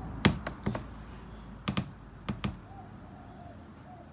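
Small hard pieces of rough opal clicking and tapping as they are handled and set down on a hard surface: about seven sharp clicks in the first two and a half seconds, then quiet handling.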